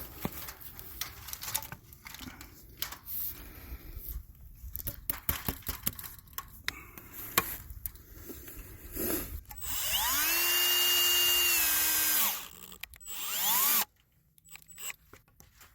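Scattered knocks and clicks of handling, then a power drill spins up and runs for about two seconds driving a screw, its whine rising, holding steady and falling as it stops, followed by a second, shorter burst.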